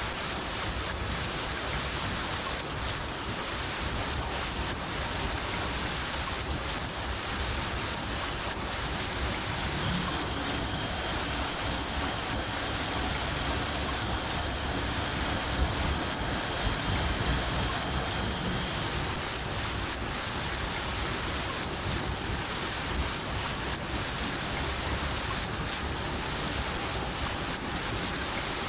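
Field cricket chirping steadily in an even rhythm, about three high chirps a second, over steady rain with a low rumble beneath.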